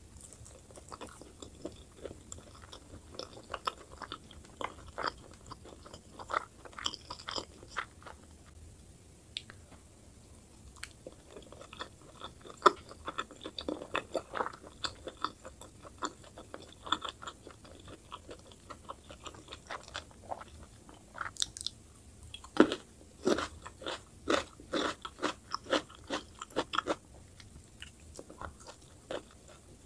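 Close-miked chewing of saucy spicy boneless chicken dipped in mayonnaise: many short, irregular mouth clicks and smacks, busiest about twelve and again about twenty-three seconds in.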